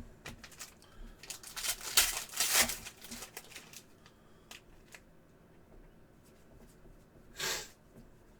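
Trading cards being handled: a quick run of flicks and rustles from about one to three seconds in, scattered single clicks, and a short swish near the end.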